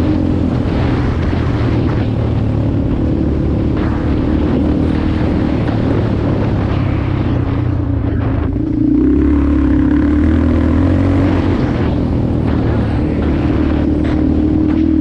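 Motorcycle engine running steadily under way; about nine seconds in its note shifts and gets a little louder as the throttle or gear changes.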